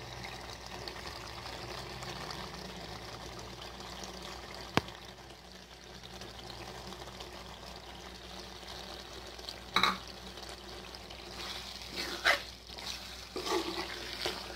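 Chicken curry sizzling in an oily pan while pickle and pickle masala are stirred in with a spoon. A single sharp click comes about a third of the way through, and the spoon scrapes against the pan a few times in the second half.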